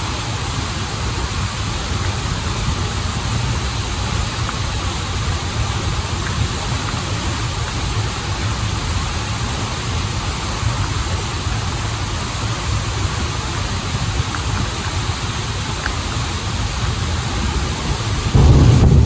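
Steady rushing of flowing water from a stream and waterfall. Near the end a louder low rumble comes in suddenly.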